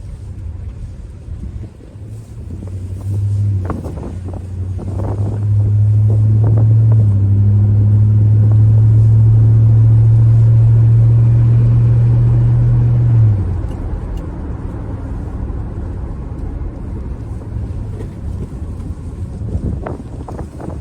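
2005 Toyota Tundra pickup's engine running as the truck is driven: a steady low drone that swells about three seconds in, holds loud for some ten seconds, then falls back to a quieter rumble.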